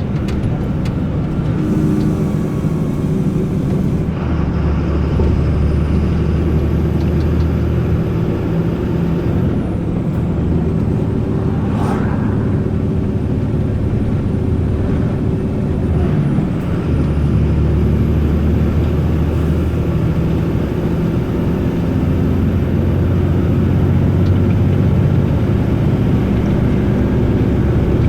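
Volvo FE 320 truck's turbo diesel engine pulling along the road, with a high turbo whistle. The whistle climbs, drops away twice as the engine eases off, and climbs again while the engine note strengthens.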